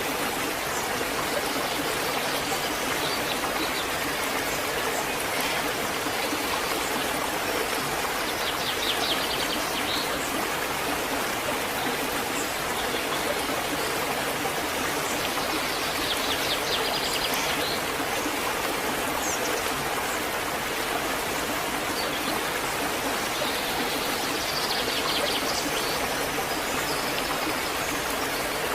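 Waterfall rushing steadily. A bird trills faintly a few times over the falling water.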